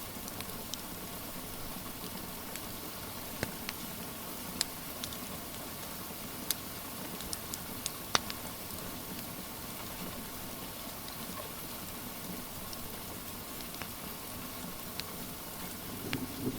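Steady hiss of rain with scattered sharp pops and crackles from a wood fire; the loudest pop comes about eight seconds in. A low rumble of thunder starts to build at the very end.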